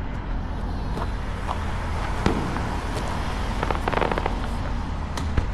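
Fireworks going off in quick succession: a steady crackle with sharp pops, and a dense cluster of bangs about four seconds in.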